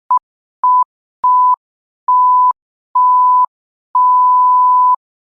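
Six electronic beeps at one steady pitch, separated by short silences, each beep longer than the one before; the last lasts about a second.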